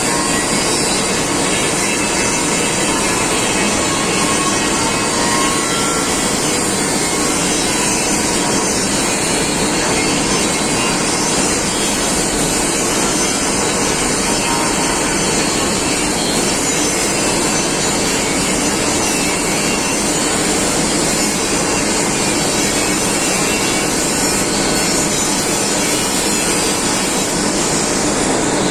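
Loud, steady machinery noise that runs without pause or rhythm.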